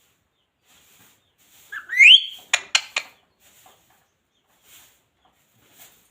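Indian ringneck parrot giving one loud rising whistle about two seconds in, then three short, sharp calls in quick succession.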